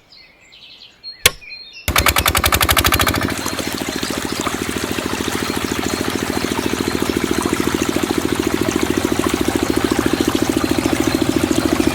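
A small diesel engine on a DIY water pump starts about two seconds in. It is louder for the first second, then runs steadily with a fast, even knocking beat. A single sharp click comes just before it starts.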